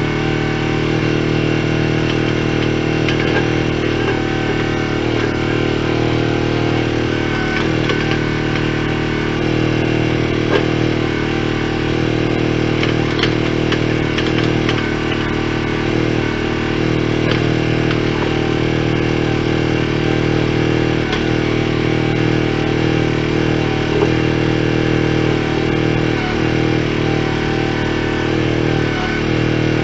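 A small engine running steadily at an even speed, with a few short knocks over it.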